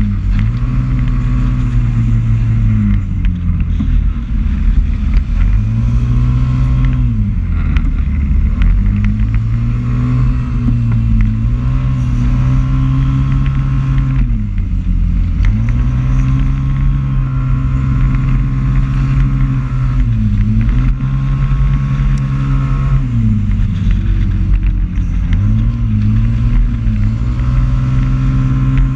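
Small motorcycle or scooter engine heard from a camera mounted on the bike while riding laps, the revs climbing and holding down each straight, then dropping sharply as it slows for a corner, over and over, with wind rush across the microphone.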